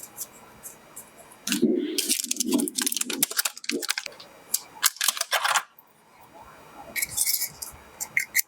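Packaging and a small gadget being handled: a run of clicks, rustles and crinkles, with dull knocks around two seconds in, a quick patter of clicks about five seconds in and a short scratchy rasp about seven seconds in.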